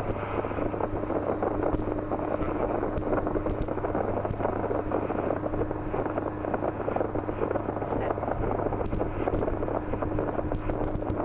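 Steady drone of a Schweizer 300C helicopter in flight, heard from inside the cabin: its four-cylinder Lycoming piston engine and rotors running with a constant low hum and a fainter, higher steady tone.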